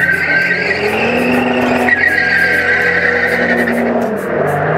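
BMW 335d's tuned twin-turbo three-litre straight-six diesel accelerating hard through the gears. The engine note climbs, drops back at a gearshift about two seconds in, climbs again and drops near the end.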